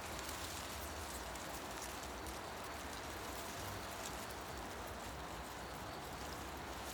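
Leaves rustling in the wind in a forest: a steady, even hiss with fine crackling patter and a low rumble underneath.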